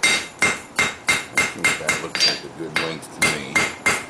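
Hand hammer striking hot steel on an anvil in a steady rhythm of about three blows a second, each blow with a bright metallic ring, as a rake-tine blank is forged wider.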